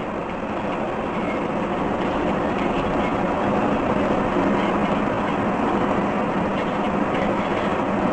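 Steady rumbling noise of a moving vehicle, swelling a little over the first couple of seconds and then holding even.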